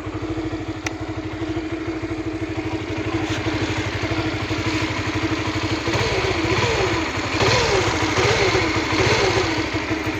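Honda Supra GTR 150 single-cylinder engine idling, then revved in a series of quick throttle blips over the second half. The uploader traces its 'nguk nguk' running sound, with the lights dying at idle, to a faulty stator coil.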